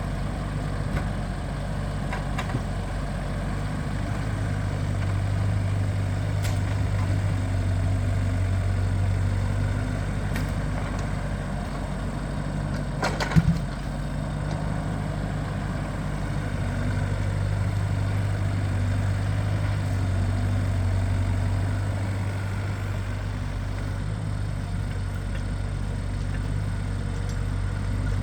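Heavy engine running steadily, its low hum swelling and easing off twice, with one sharp knock about halfway through.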